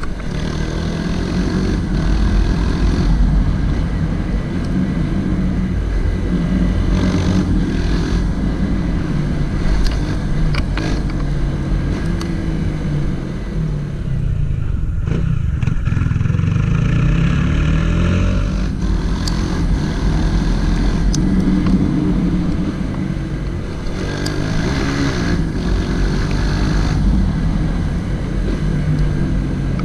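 Honda CG 160 Titan's single-cylinder engine running under way. Its revs rise and fall as the bike accelerates and slows through the gears, dropping about halfway through and climbing again.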